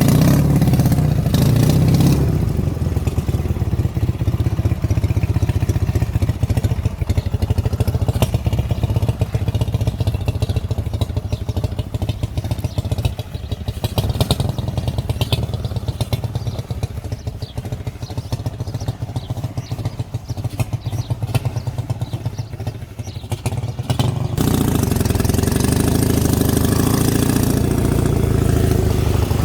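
Dnepr MT-11 motorcycle's flat-twin engine running with a steady low beat, quieter in the middle stretch and suddenly louder and harsher about five seconds before the end.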